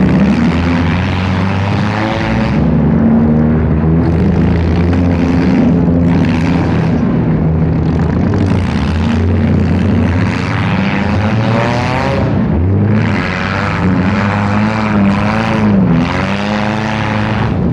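Several demolition derby cars' engines running loud together, revving up and down as the cars push and ram one another. The pitch swings most between about twelve and sixteen seconds in.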